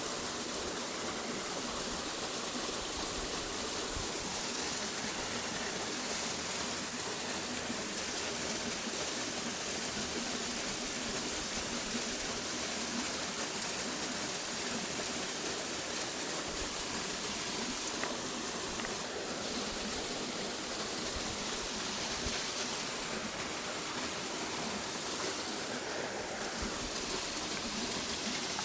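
A steady rushing noise that stays even throughout, with no distinct events.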